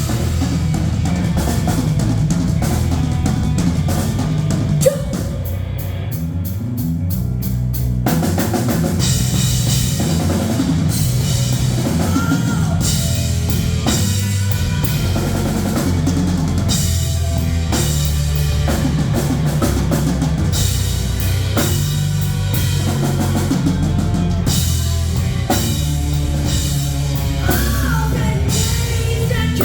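Live rock band playing an instrumental passage, the drum kit prominent over a heavy bass, with a fast drum fill about six seconds in.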